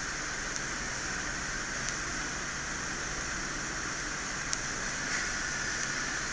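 Steady fan-like hiss with a few faint, tiny clicks.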